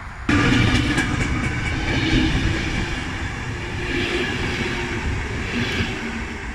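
A train running past close by: a steady rumble with wheel clicks and ringing rail tones, starting abruptly just after the start.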